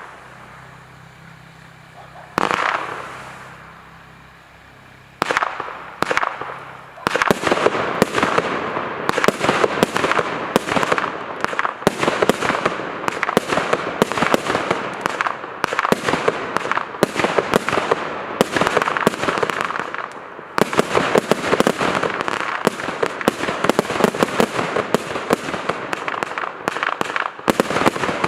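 Blue Dragon consumer firework going off: two single bangs a few seconds apart, then from about seven seconds in a dense, continuous crackling of rapid small pops, with two brief lulls.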